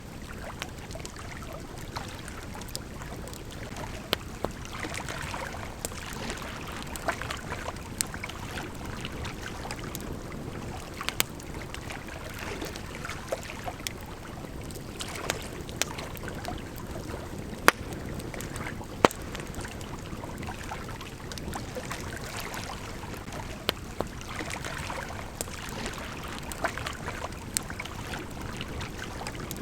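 Campfire crackling, with sharp irregular pops and snaps, over the steady rush of a gently flowing river.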